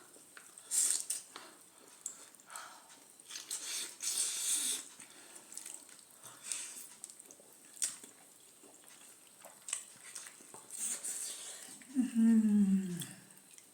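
Close-up eating sounds: spicy noodles being slurped and chewed, with a few light clicks. About twelve seconds in there is a short hum from the eater that falls in pitch.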